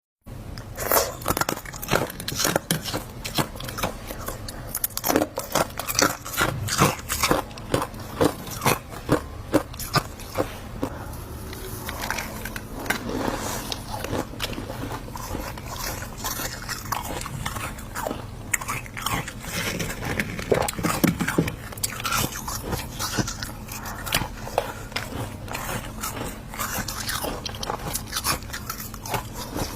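Freezer ice being bitten and chewed in repeated sharp crunches. The bites are loud and separate, several a second, in the first half, then turn into steadier, denser crunching.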